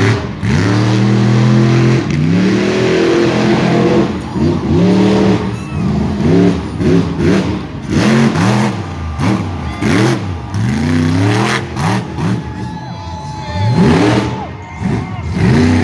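Monster truck engine revving hard, its pitch rising and falling over and over in quick succession, with a short stretch of steadier running near the start.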